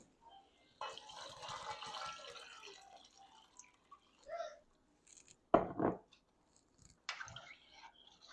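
Water running and splashing into a cooking pot for about two seconds, then a loud double knock about five and a half seconds in, and another short splash near the end.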